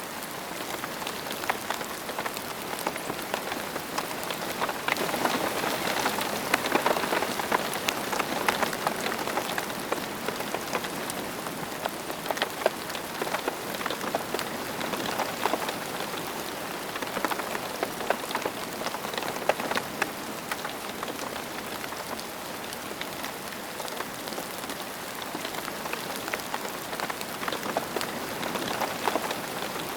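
Steady rain falling on a surface, a dense hiss scattered with individual drop impacts, growing a little heavier for a few seconds early on before settling back.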